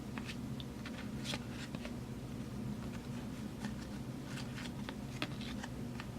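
Football trading cards being handled and flipped through, with scattered light clicks and rustles, over a steady low hum.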